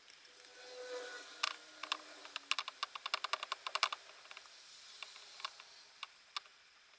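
A quick run of small, sharp clicks, about a dozen in two seconds, then a few spaced single clicks.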